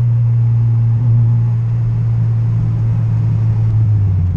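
Turbocharged Acura Integra's Honda B18 four-cylinder engine heard from inside the cabin, running on steadily after a full-throttle pull. Its drone sinks slowly in pitch as the revs ease off, then steps up sharply at the very end.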